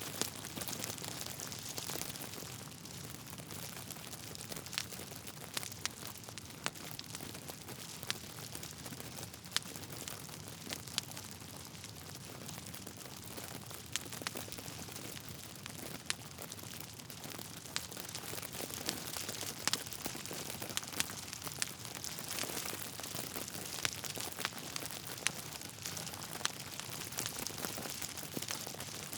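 Wood fire burning in a fireplace: a steady hiss with frequent sharp, irregular crackles and pops from the logs.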